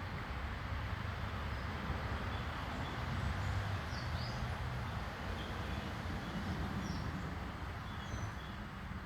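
A steady low rumble of outdoor background noise, with a few faint, short, high bird chirps in the second half.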